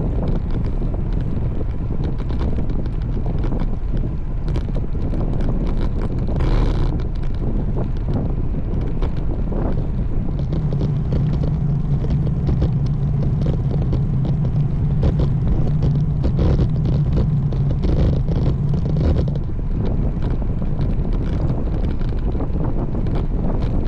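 Wind buffeting the microphone of a camera riding on a moving road bike. A steady low hum joins it about ten seconds in and stops about nine seconds later.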